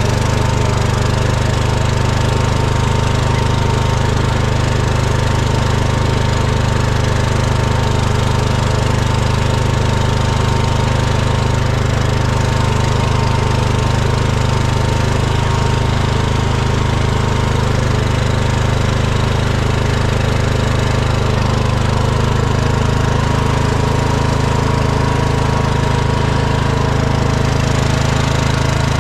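Small engine running steadily at an even speed, close to the microphone.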